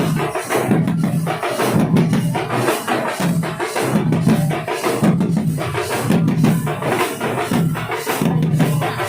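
Nasik dhol ensemble drumming a driving rhythm: deep dhol beats repeating about once or twice a second under fast, dense stick strokes.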